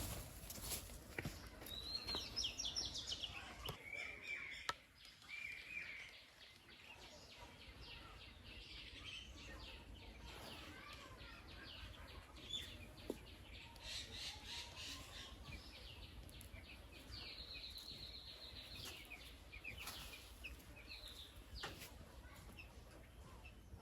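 Faint bird chirps and calls over quiet outdoor background noise, with short high chirps coming in scattered bunches and a few small clicks.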